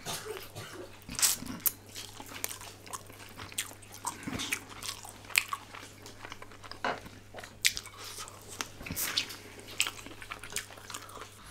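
A person biting and chewing chicken wings close to the microphone: irregular sharp clicks and wet smacks of eating.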